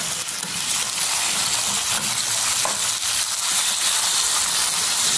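Lemon pickle mixture (steamed lemon pieces and their juice with garlic, ginger and chillies) sizzling steadily in hot oil over a high flame, stirred with a steel spoon in the pan.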